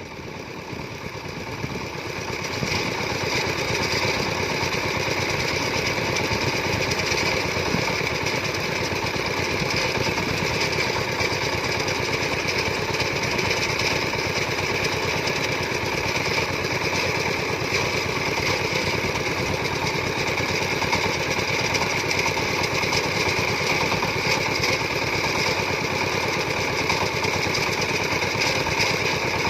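A farm machine's engine running with a dense, rapid chugging. It grows louder over the first two seconds or so, then runs on steadily.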